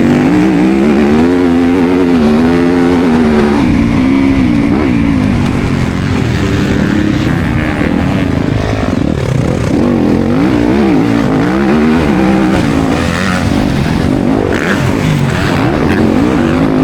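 Yamaha YZ250FX dirt bike's single-cylinder four-stroke engine racing flat out on a motocross track, its pitch rising and falling again and again as the rider opens and closes the throttle and shifts through corners and jumps.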